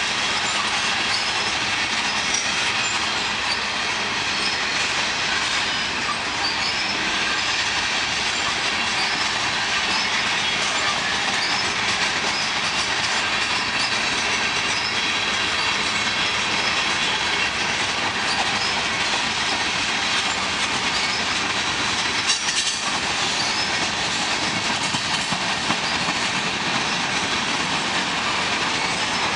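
A freight train's cars rolling past: a steady rumble and clatter of steel wheels on the rails, with faint high wheel squeals and a sharp clank about 22 seconds in.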